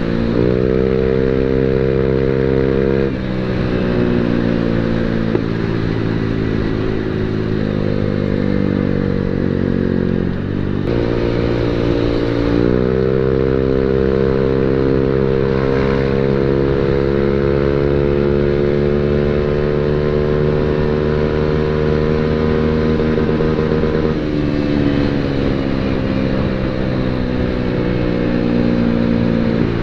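Automatic scooter engine running through an aftermarket CMS-copy quiet ('adem') muffler, with engine speed rising and falling several times and a long slow climb in the middle.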